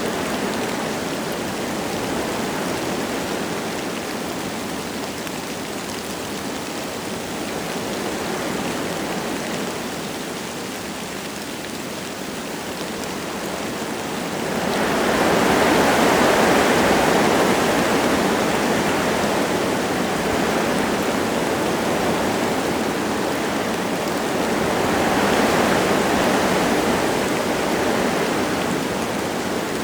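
Wind gusting through forest trees with light rain, a steady rush that swells into a stronger gust about halfway through and again near the end.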